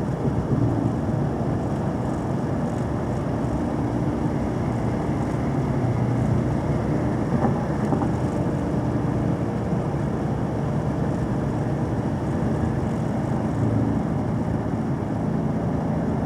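Onboard engine and road noise from a vehicle being driven hard, steady throughout, with the engine note shifting up and down as it is worked.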